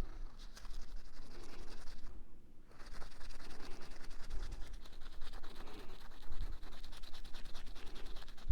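Rapid, steady scratching and rubbing, which breaks off briefly about two seconds in and then carries on.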